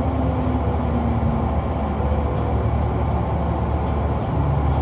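Kintetsu 6020-series commuter train running, heard from inside the passenger car: a steady low rumble of wheels on rail. A faint whine falls in pitch over the first second and a half.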